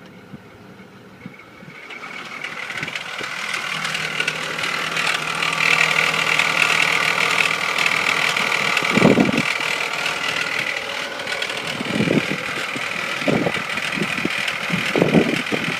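Vectra 3.0 V6 engine running, with a steady higher-pitched noise that swells in over the first few seconds and then holds. A few short low thuds come in the second half. This is the car's intermittent noise.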